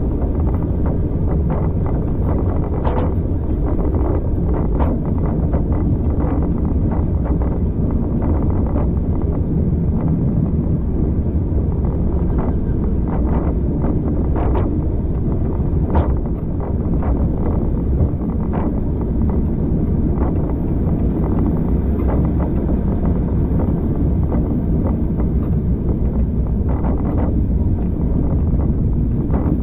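Train carriage running along the line: a steady low rumble with wind noise, broken by irregular sharp clicks and knocks from the wheels and running gear.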